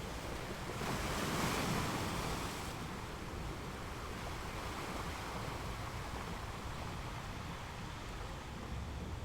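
Ocean waves washing onto a shore: one wave breaks and hisses loudly about a second in, then fades into steadier surf with a low rumble.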